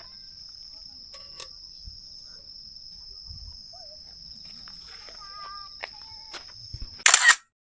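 Insects trilling steadily on two high pitches, with scattered faint clicks and a short high call about five seconds in. Near the end a brief loud burst of noise, then the sound cuts off abruptly.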